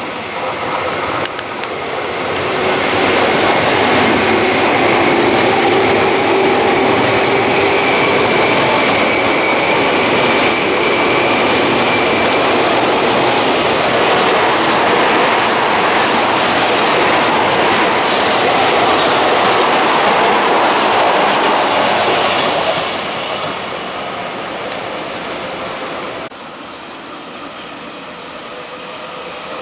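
Tokyu 8500-series electric commuter train passing close by: a loud, steady rumble of wheels on rail with a faint motor whine that lasts about twenty seconds, then fades. Near the end the next train starts to draw near.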